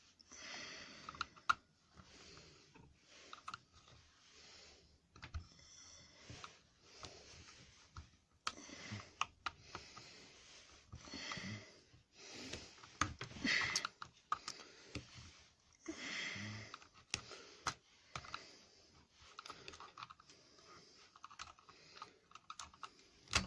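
Faint, irregular clicks, taps and scraping of small plastic and rubber parts being handled, as the rubber bung and fuel lines are worked out of a hedge trimmer's fuel tank.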